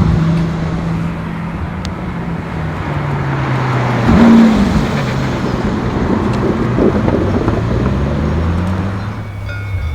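Supercar engine driving past: its pitch falls, a loud quick rev rises and drops about four seconds in, then the revs climb again as it accelerates. Near the end a steadier, lower engine note takes over.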